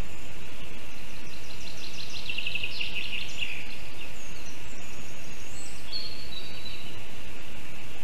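A small bird singing: a rapid phrase of repeated notes, then a few higher notes, over a steady outdoor background hiss with a constant high tone.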